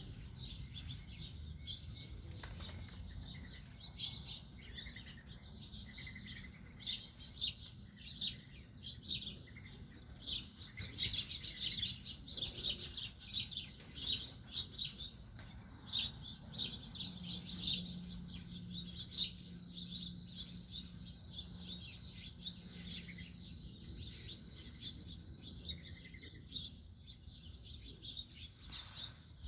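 A flock of small birds chirping, a busy run of short high chirps, with wings flapping as birds come and go.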